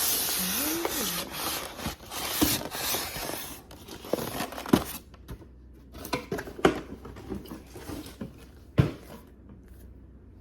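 Cardboard box and plastic packaging being opened by hand: about four seconds of rustling, scraping and tearing, then a few scattered knocks and taps as the contents are handled.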